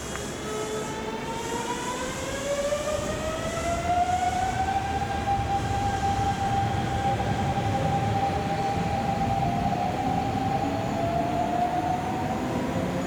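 Kintetsu electric commuter train's motor whine rising in pitch over the first few seconds, then holding steady, with wheel rumble growing louder as the train gathers speed.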